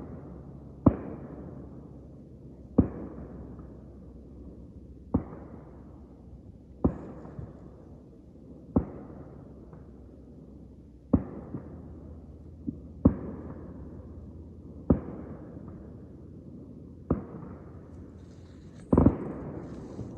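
Distant fireworks going off: ten sharp booms about two seconds apart, each rolling away in a long echo. The loudest, a doubled bang, comes near the end.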